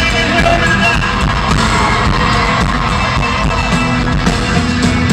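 A live country band playing loudly at a concert, with drums and singing, heard through the amplified sound system.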